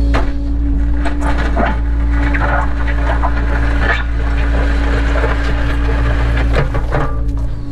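Cat 307 excavator's diesel engine running steadily, with a string of irregular crunching and scraping knocks from just after the start until near the end: the bucket or attachment working through material.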